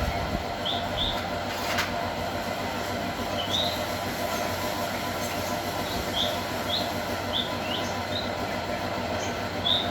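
Small grass-trimmer engine running steadily as it drives the home-built generator, a constant hum with a few fixed tones. Short high chirps come and go over it about a dozen times.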